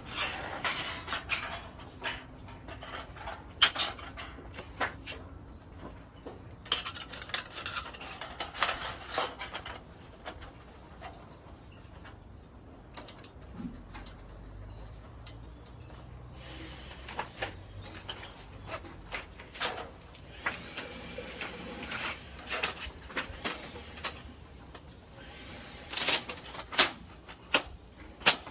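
Metal parts of a folding fire stand clinking, scraping and clicking as it is handled and set up, in scattered bursts with a few sharp clanks, the loudest about four seconds in and near the end.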